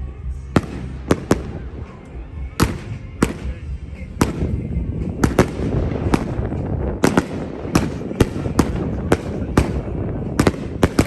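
Aerial fireworks going off in rapid, irregular succession: about twenty sharp bangs, one every half second or so, over a continuous crackle.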